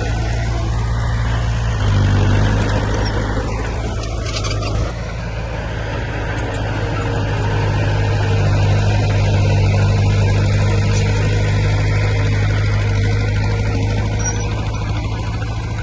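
Heavy diesel engine of earthmoving machinery running steadily under load, its low hum rising about two seconds in and swelling again after a brief dip near five seconds.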